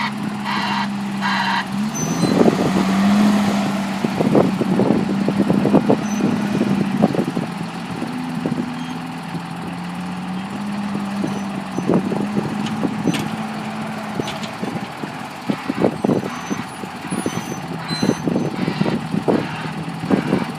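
Heavy diesel farm machinery running at silage work, a steady engine hum that steps up and down in pitch several times, with irregular knocks and thumps throughout.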